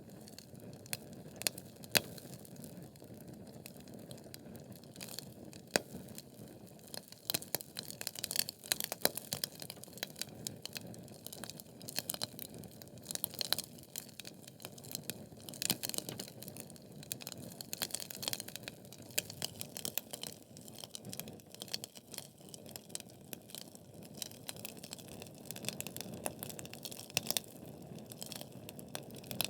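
Wood fire burning in a fireplace: logs crackling with many sharp irregular pops over a steady low hiss, the crackle growing busier after the first several seconds.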